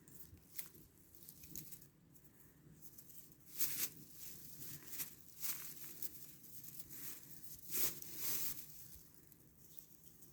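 Soft rustling and scratchy crackling in irregular short bursts, loudest about three and a half seconds in and again near eight seconds.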